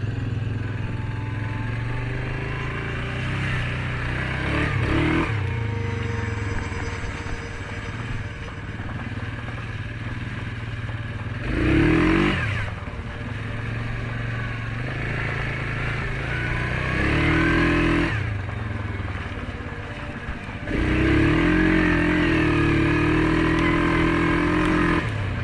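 Suzuki KingQuad 750 ATV's single-cylinder engine running under load in deep mud, revved up and down in repeated bursts as the wheels spin. The loudest revs come about halfway through and over the last few seconds.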